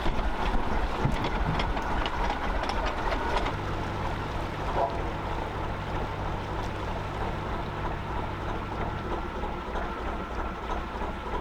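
Gardner 2LW two-cylinder diesel of a narrowboat running with a steady low throb. A steady low hum joins in for several seconds in the middle.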